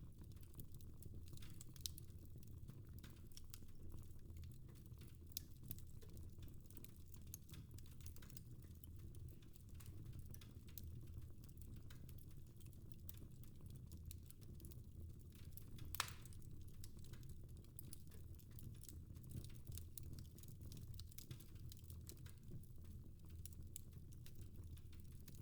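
Fireplace fire crackling faintly with many small irregular pops and one sharper pop about two-thirds of the way through, over a steady low rumble.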